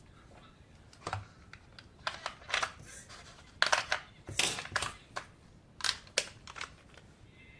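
Irregular clicks, taps and crinkling rustles of plastic and cardboard packaging being handled, busiest in the middle.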